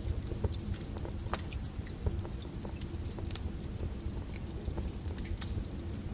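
Wood fire burning in a fireplace: a steady low rumble of the flames with frequent small, irregular crackles and pops from the burning logs.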